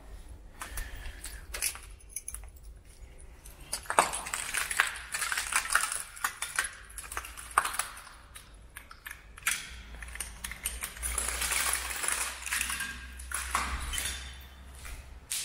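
A dense run of irregular clicks, taps and light clinks, busiest from about four seconds in until near the end.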